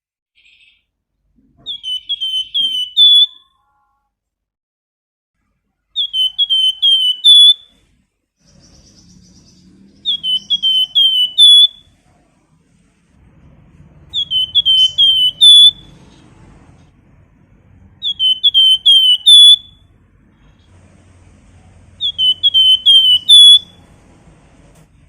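A flamboyan songbird whistling the same short phrase six times, about every four seconds: each phrase is a quick run of about five clear whistled notes, the last the loudest.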